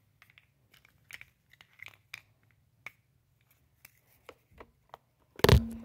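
Small plastic toy garbage bins being pulled apart from a stack and handled: scattered light clicks and taps, then one loud knock near the end.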